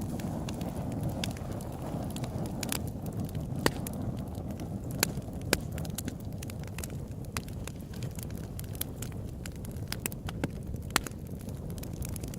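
Open-air campfire burning with a steady low rumble and irregular sharp crackles and pops from the burning wood, several of them standing out loudly.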